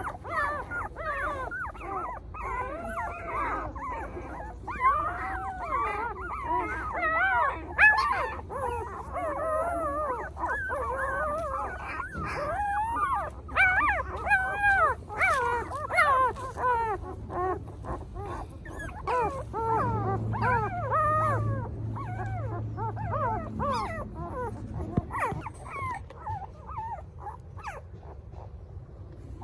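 A litter of puppies crying at once: many short cries that rise and fall and overlap one another. They thin out over the last few seconds.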